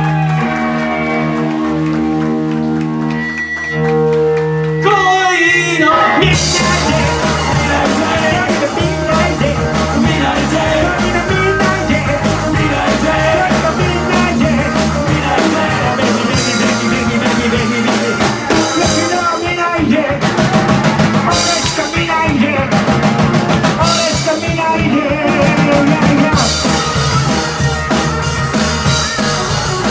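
Rock band playing live: held, sustained notes for the first few seconds, then drums and cymbals come in with the full band about six seconds in.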